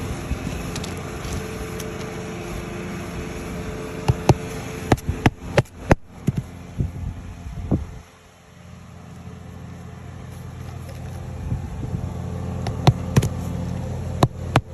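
Irregular sharp taps and knocks, bunched about four to six seconds in and again near the end, from hand tools working on roof shingles. Under them runs a steady low hum that drops away about eight seconds in and slowly builds back.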